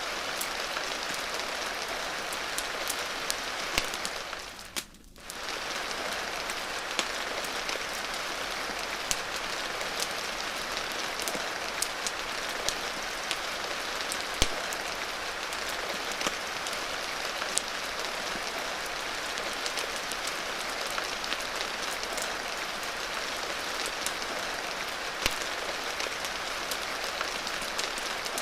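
Steady rain with scattered sharp crackles and pops from a wood fire. The sound briefly drops away for about half a second around five seconds in.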